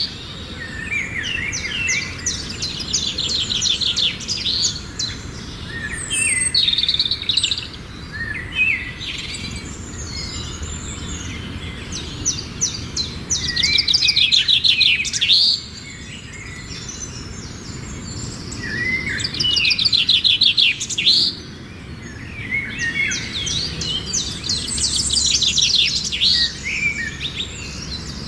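Songbirds singing: phrases of fast, high trills and chirps, repeating every few seconds over a low, steady background hum.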